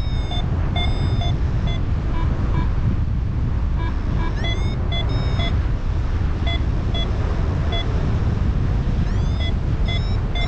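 Strong wind rushing over the microphone in flight, with a paragliding variometer beeping in short repeated pulses, the pattern a vario gives when the glider is climbing in lift. Its tone sweeps upward briefly twice.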